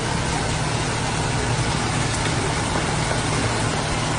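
A vehicle engine running steadily, its low even hum under a constant rushing noise.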